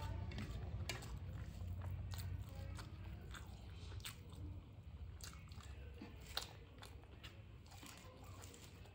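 Close-miked chewing of a mouthful of rice and fish, with many short, irregular wet mouth clicks and smacks.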